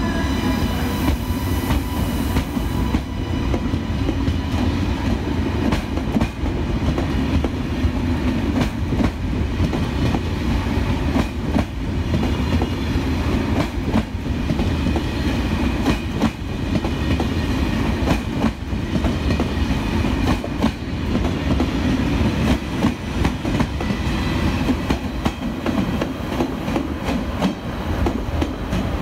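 Train rolling through the station with a steady heavy rumble and wheels clicking over the rail joints, plus a faint high whine in the first few seconds.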